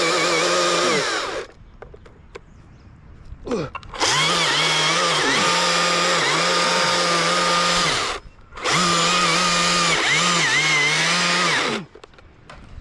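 Two-stroke chainsaw revved to full throttle in three long bursts, its high steady note dipping slightly now and then, dropping back between bursts.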